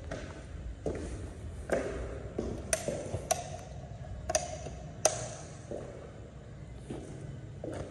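A few sharp taps and clinks, four of them ringing briefly with a light metallic ping, spread over a few seconds.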